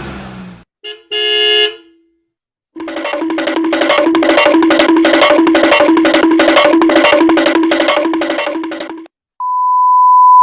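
A brief car horn honk. Then a cartoon running sound effect: a quick pattern of plucked notes repeating about twice a second for about six seconds. Near the end a steady, single-pitch censor beep starts.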